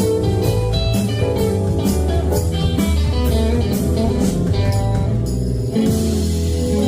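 Live band playing a blues number: guitar over bass and a drum kit keeping a steady cymbal beat, which drops out briefly about five seconds in.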